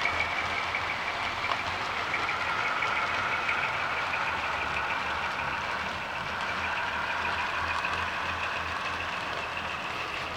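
HO scale model train running, a steady whine with two tones that drift slowly in pitch over a low rumble.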